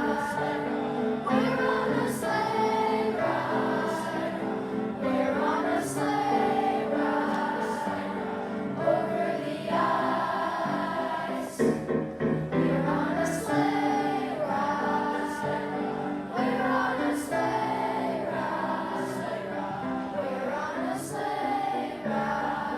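A children's choir singing a song together over musical accompaniment with a steady beat, with a short break between phrases about halfway through.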